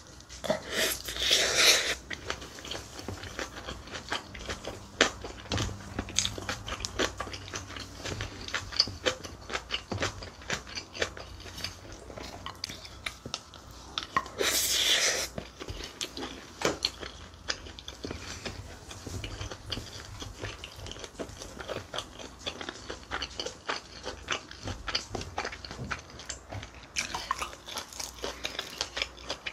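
Close-miked eating sounds of a person chewing big mouthfuls of mixed vegetable bibimbap: wet chewing with many small clicks and crunches. Louder bursts come as a spoonful goes into the mouth, about a second in and again about halfway.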